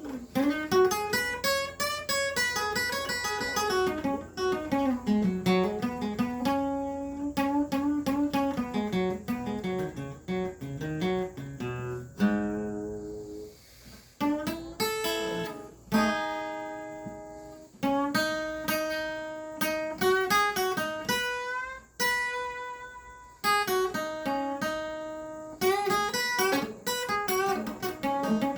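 Acoustic guitar playing an instrumental passage: quick picked notes over a moving bass line, then chords struck about every two seconds and left to ring out and fade.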